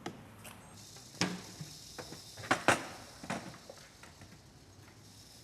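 A handful of short, sharp knocks and clinks, about five spread over two seconds, the loudest a little over a second and a half in and near the middle.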